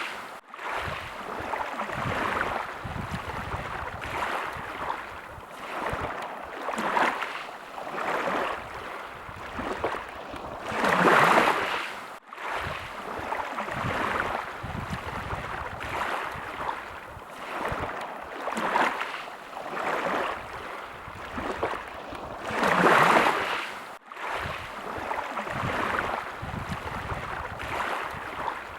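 Small sea waves lapping and washing in and out, swelling every couple of seconds, with two bigger swells about a third and about four-fifths of the way through. The sound cuts out for an instant twice, right after the first big swell and shortly after the second.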